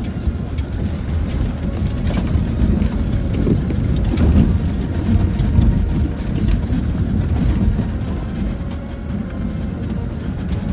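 Land Rover Discovery 4 driving over a rough, wet off-road track, heard from inside the cabin: a steady low rumble of engine and tyres, with a few knocks from the rocky ground.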